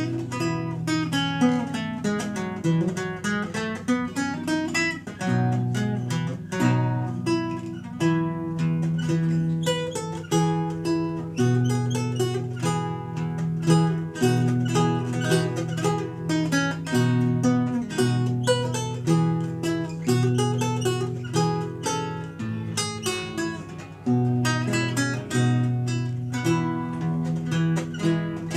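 Renaissance lute played solo: a continuous stream of plucked melody notes over ringing bass notes.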